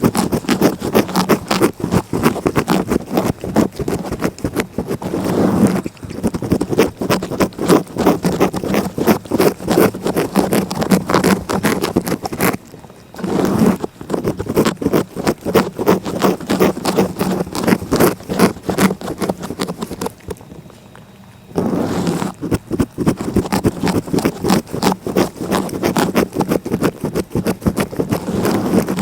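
Cat licking close against a microphone: rapid, continuous rasping strokes of a rough tongue, breaking off briefly about halfway through and again for a second or so near two-thirds of the way in.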